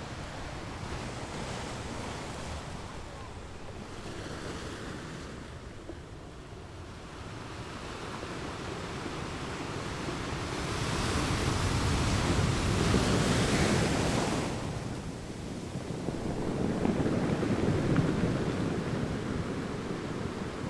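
Wind buffeting the microphone: a rumbling hiss that swells in gusts, loudest around the middle and again near the end.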